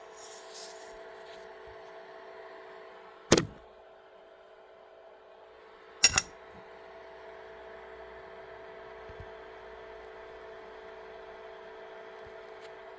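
Steady whirring hum with a fixed whine from a device in for repair: a strange noise that sounds like a faulty cooling fan. Two sharp clicks, the loudest sounds, break in about three seconds in and again about six seconds in, the second a quick double.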